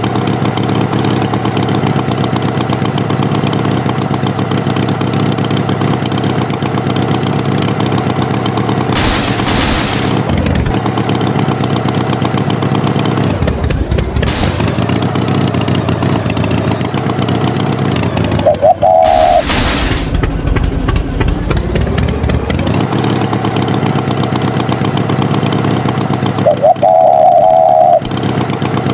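Tractor engine running steadily with a rapid chugging, its pitch dipping and rising again in the middle. Three short whooshes and two brief beeping tones cut in over it.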